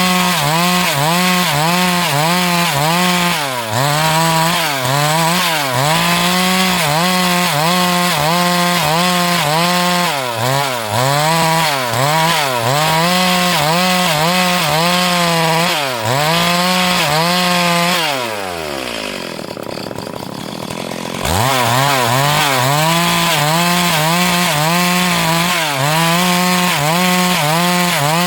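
Chainsaw at high revs cutting lengthwise through a log, its pitch dipping briefly under load about once a second. About two-thirds of the way through, the throttle is let off and the pitch falls away for a few seconds, then it revs back up and cuts on.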